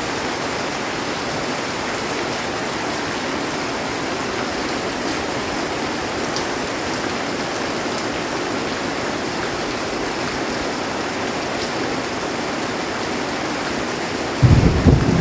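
Heavy rain falling steadily on a metal roof, an even hiss. Near the end a sudden loud, low rumble of thunder breaks in.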